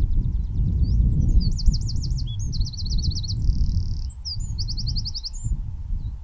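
A small songbird singing one long high-pitched song of fast trills with a buzzy rattle in the middle, about four seconds long, over a steady low rumble of wind on the microphone.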